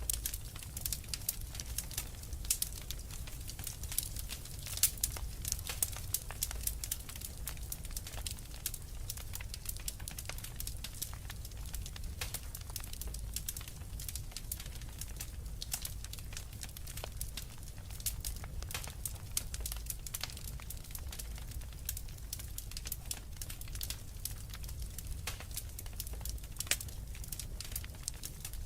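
Wood fire crackling and popping steadily, with dense irregular snaps over a low rumble of flame.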